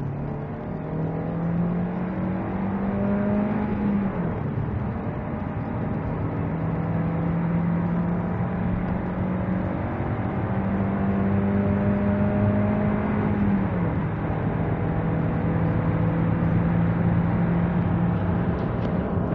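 Kia Pro Ceed's 1.4-litre 105 hp four-cylinder petrol engine pulling hard through the gears under full acceleration. The engine note climbs steadily in each gear and drops at the upshifts, about four seconds in and again around fourteen seconds in.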